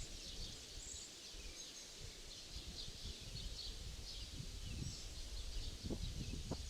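Small birds chirping in short, repeated calls over a low rumble of wind on the microphone. Soft footsteps in sand come in during the second half and are clearest near the end.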